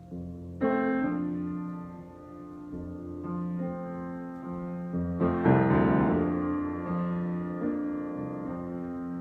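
Solo piano improvisation: slow, sustained chords, a new one struck every two or three seconds and left ringing, with the fullest, loudest chord about five seconds in.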